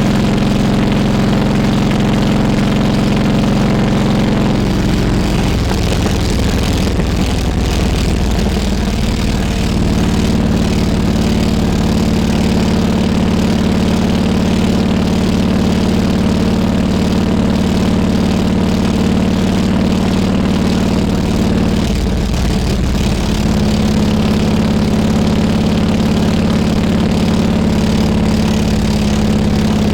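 Harley-Davidson Road King Classic's V-twin engine running steadily. Its note shifts to a new pitch about six seconds in and again about 22 seconds in, holding steady in between.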